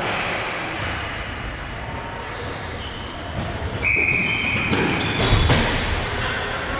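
Sounds of play in a hockey game: a steady rink din with a short, high-pitched tone lasting about half a second around four seconds in, and a louder stretch of knocks just after five seconds.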